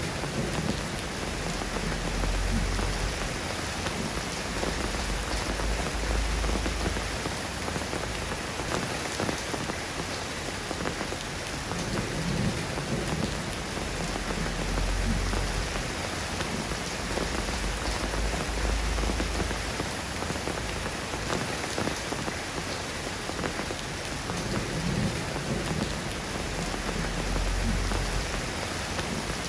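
Steady rain falling, an even hiss of many drops, with soft low rumbles swelling every few seconds underneath.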